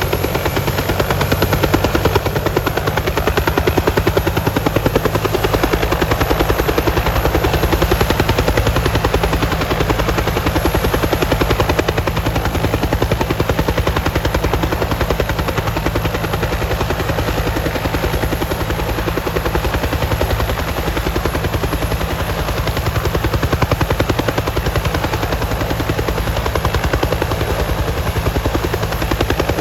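Firefighting helicopter running close by, its rotor beating in a fast, even pulse over a steady engine drone.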